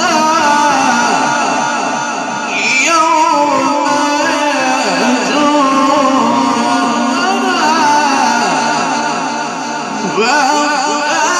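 A male reciter's melodic Quran recitation in the ornamented mujawwad style, amplified, drawing one phrase out in long winding melismatic runs.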